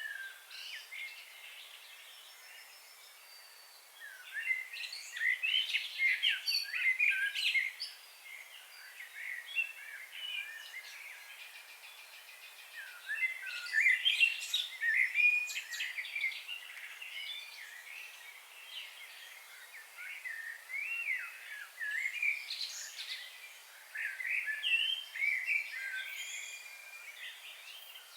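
Birds singing and chirping in quick warbling phrases. The song comes in busier bursts about 4 s in, around 14 s and again from about 21 s, with quieter chirping in between.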